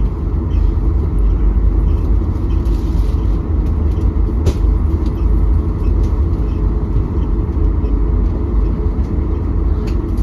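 Steady low rumble of an airliner's cabin noise, engine and airflow heard from inside the passenger cabin, with a few faint clicks.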